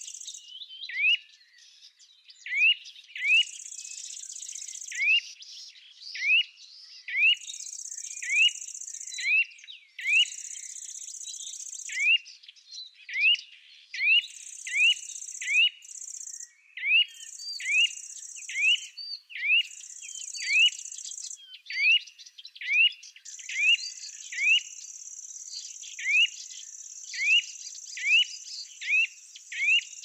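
A bird calls over and over with a short upward-sweeping chirp, a little more than once a second. High insect buzzing comes in stretches of a second or two, then runs unbroken through the last quarter.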